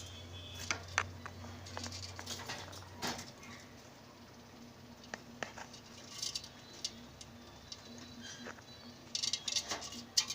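Budgies making scattered short chirps along with light scratching and tapping sounds, busiest near the end.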